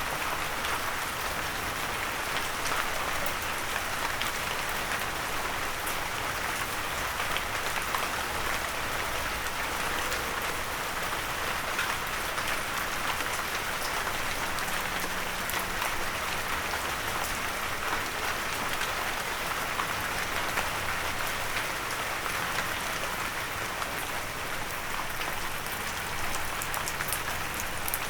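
Steady rain falling, a dense even hiss with many small drop ticks, the drops hitting a windowsill.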